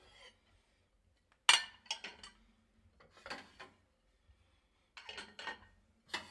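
Plates clattering and clinking as they are set one by one into the slots of a dishwasher rack. The clatters come in four separate bunches, the sharpest about a second and a half in.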